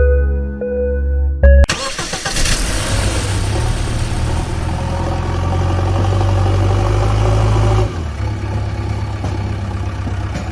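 A few musical notes over a heavy bass, then about a second and a half in a vehicle engine starts and runs steadily, easing off a little near the end.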